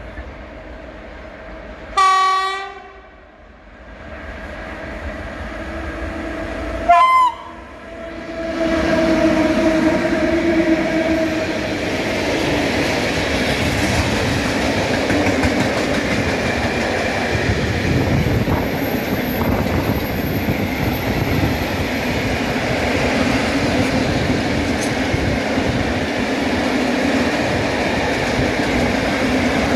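Pair of EU07 electric locomotives hauling a freight train of open coal wagons: two brief horn blasts about five seconds apart, then the locomotives and wagons pass close by with a loud, steady noise of wheels on the rails.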